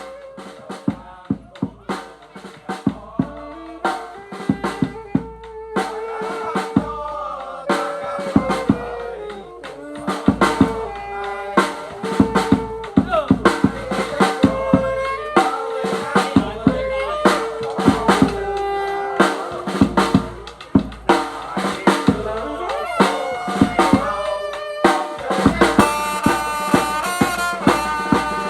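Music with a drum kit (snare, bass drum and rimshot hits in a steady beat) under a sliding, ornamented melody line.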